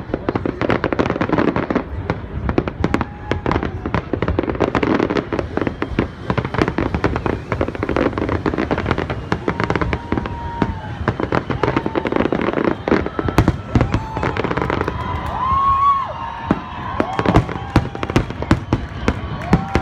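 New Year fireworks display: a dense, continuous run of rapid bangs and crackling bursts, with wavering whistling tones joining in over the last few seconds.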